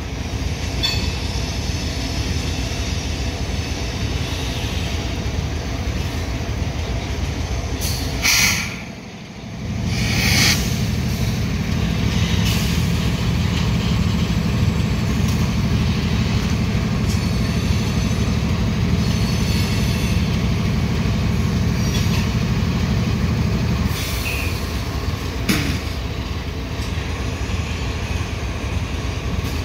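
Loaded coal hopper cars rolling steadily past, their steel wheels rumbling and clicking over the rails, with faint wheel squeal at times. A steady low hum comes in about ten seconds in and stops abruptly about fourteen seconds later.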